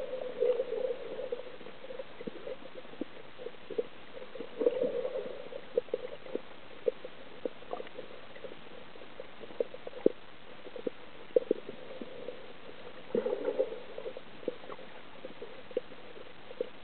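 Water gurgling in a few short bursts, with scattered sharp clicks throughout.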